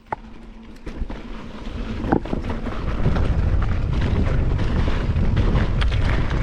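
Wind buffeting the microphone of a camera on a moving mountain bike, building over the first three seconds as the bike gathers speed, then holding steady. Scattered sharp clicks and knocks from the bike run through it.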